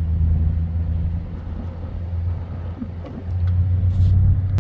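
Car engine and road rumble heard from inside the cabin: a steady low hum that eases a little in the middle and swells again about three seconds in.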